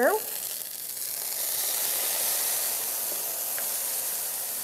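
Raw shrimp sizzling as they go into hot olive oil and garlic in a skillet, the pan hissing and steaming. The sizzle swells about a second in and then holds steady.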